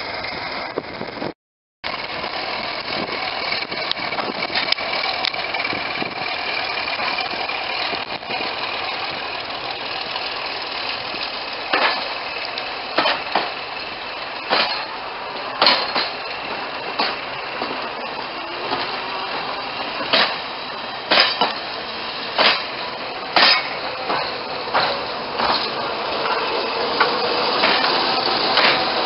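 Diesel train running with a steady engine drone. From about twelve seconds in comes a series of sharp clanks at irregular intervals, about one a second. The sound cuts out for a moment near the start.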